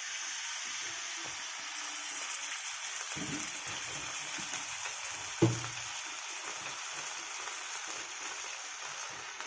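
Chicken sizzling in a hot pan, a steady hiss, with one short knock about five and a half seconds in.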